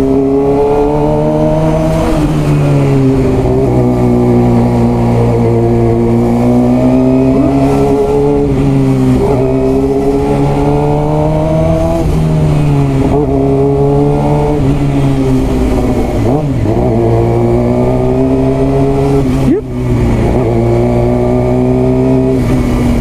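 Suzuki GSX-R600's inline-four engine running under way, its pitch rising and falling with the throttle. About twenty seconds in, the sound drops briefly.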